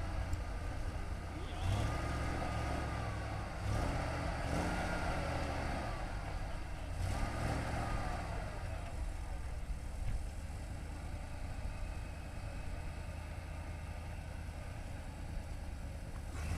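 ZIL-131 truck's V8 petrol engine working under load, revving up in several surges in the first half, then running more steadily.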